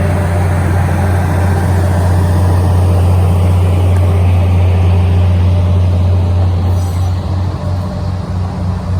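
A train going by: loud, steady low noise with a broad rushing haze above it, wavering unevenly from about seven seconds in.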